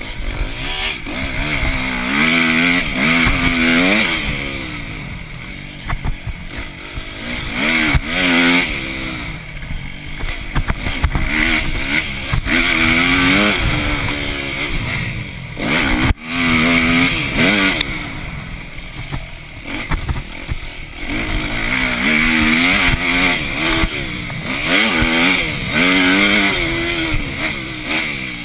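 Motocross bike engine revving hard and dropping back again and again as it accelerates, shifts and shuts off through the track's sections, with a sudden brief dip about halfway through.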